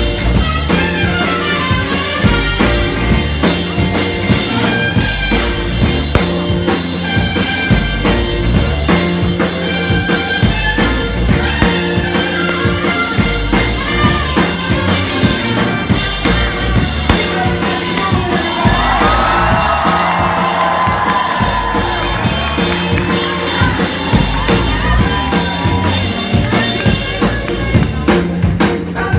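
Soul band playing live, a funk groove carried by drum kit and bass, with a wavering run of lead notes past the middle.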